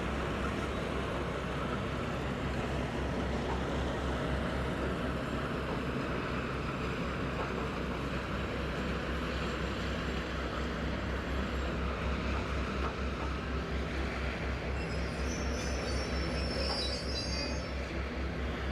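Heritage diesel locomotive's engine running with a steady, low, evenly pulsing rumble. Faint high-pitched squeaks come in near the end.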